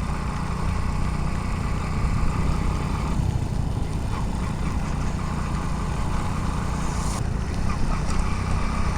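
Motorcycle running steadily at road speed, with a continuous low engine rumble and wind noise, as picked up by a helmet-mounted GoPro.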